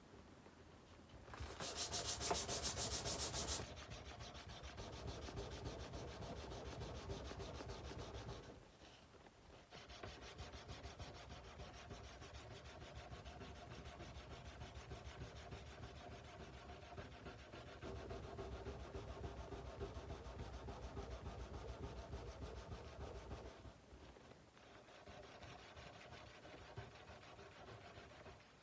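Hand sanding a Nepalese kukri's steel blade with sandpaper: steady rapid back-and-forth rubbing strokes. A louder, harsher stretch comes near the start, and there are short pauses about a third of the way in and again later.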